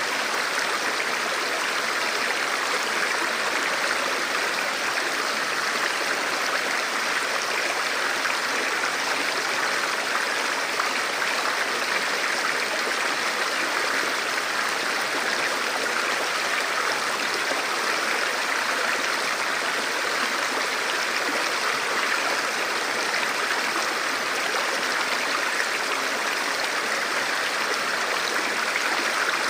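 Forest river or stream flowing over rocks: a steady, even rush of water.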